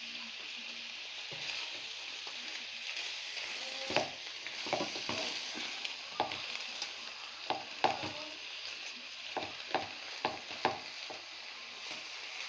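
Shrimp sizzling in butter in a frying pan, a steady hiss, with irregular knocks and scrapes as they are stirred in the pan from about four seconds in.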